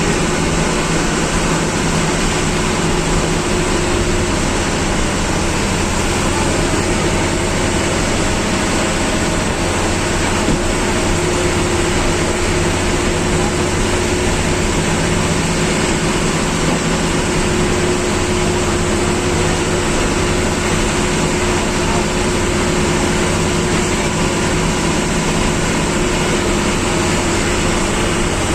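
Government bus's diesel engine running steadily, heard from inside the driver's cabin, with a constant rush of road and wind noise.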